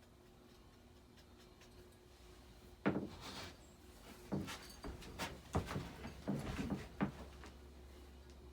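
SMC A-52 ceiling fan's motor running with a faint steady hum, the hum typical of some older fans. A run of knocks and clatter from about three to seven seconds in is louder than the hum.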